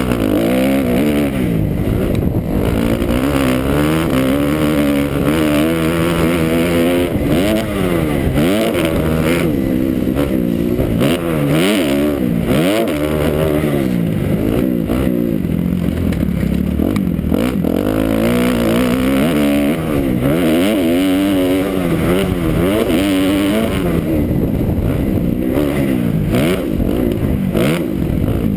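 2009 Kawasaki KX250F four-stroke single-cylinder motocross engine being ridden hard, its pitch climbing and dropping every second or two as the throttle is opened and closed.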